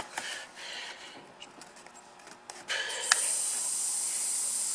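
Lego pneumatic V-twin engine running on compressed air with no flywheel: a loud, steady hiss of rushing air starts about three seconds in, after a few faint handling clicks.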